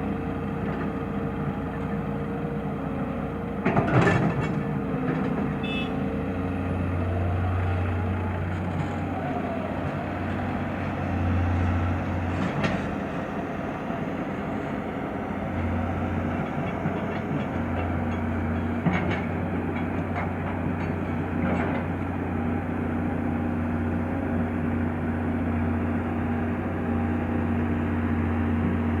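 Excavator's diesel engine running steadily, with a few sharp metallic clanks from the machine working, the loudest about four seconds in.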